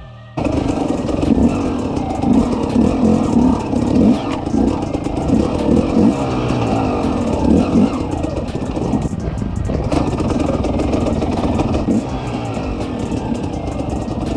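Off-road vehicle engine running along a rough trail, with repeated revving surges and rattling, cutting in abruptly less than half a second in.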